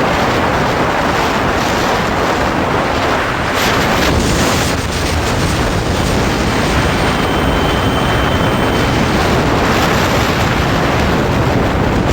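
Loud, steady wind rush buffeting the microphone of a Hero Xtreme 125 motorcycle ridden at top speed, drowning out the engine and tyre noise.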